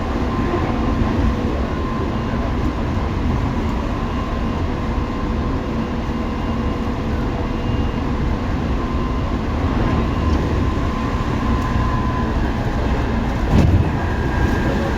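Tobu 9050 series electric train running: a steady rumble of wheels on rail with faint, steady motor whines, and a single knock near the end.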